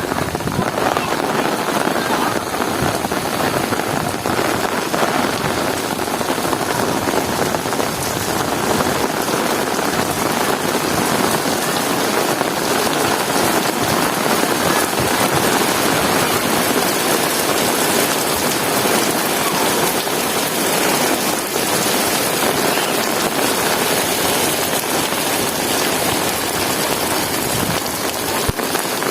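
Heavy rain falling steadily: a dense, even hiss of drops on surfaces, with no breaks.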